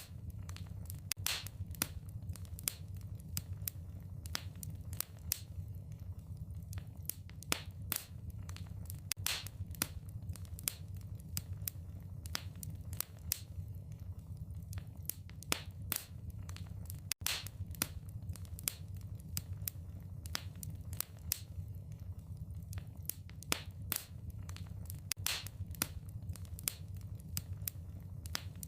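Wood fire crackling in a fireplace: irregular sharp pops and snaps over a steady low background of burning. The sound cuts out for a split second about halfway through.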